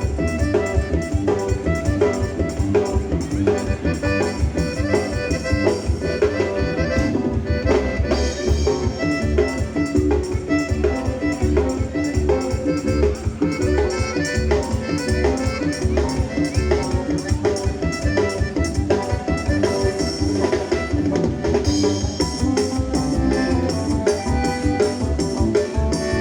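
Live band playing an upbeat Latin dance tune through a loud sound system. It is an instrumental stretch with a steady drum-kit beat and accordion.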